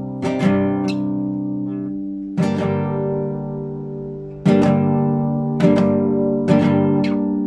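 Classical guitar improvising: five chords, each struck and left to ring out, a new one every second or two.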